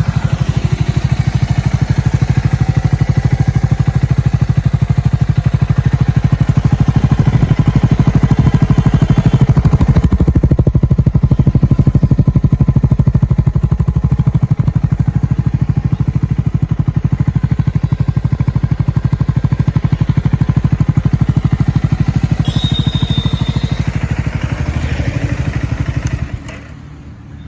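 Triumph Scrambler 400X's single-cylinder engine running through its exhaust, a steady loud beat of firing pulses with a deep low end. The sound stops abruptly near the end.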